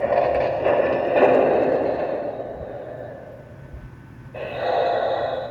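Sound effects from the onboard sound system of a Lionel Legacy model caboose: surges of hissing noise that fade away, then a second burst about four seconds in that cuts off suddenly.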